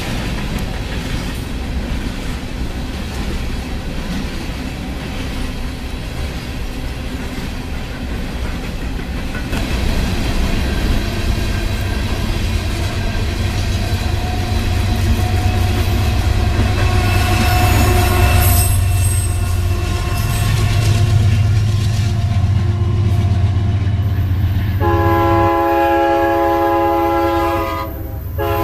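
Empty coal hopper cars of a Union Pacific coal train rolling past, a steady low rumble with wheel clatter that grows louder about ten seconds in. About 25 seconds in, a locomotive horn begins sounding its chord and holds it.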